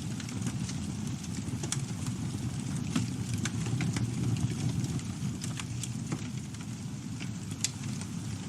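Campfire burning: a steady low rumble of flames with irregular sharp crackles and pops from the wood.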